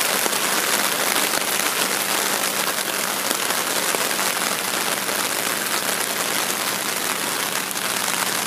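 Heavy rain falling steadily on a flooded rice paddy, an even hiss of drops on standing water and leaves.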